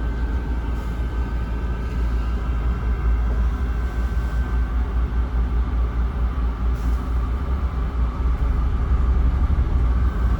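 Mercedes-Benz O307 city bus heard from inside the passenger cabin: a steady low rumble of the engine and running gear.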